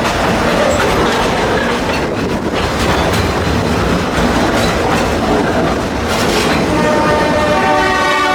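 Narrow-gauge train cars rolling behind a 1928 Plymouth T12 gasoline locomotive: a steady rumble and clatter of wheels on rail, with a few sharp clicks. About seven seconds in, the locomotive's horn starts a steady blast.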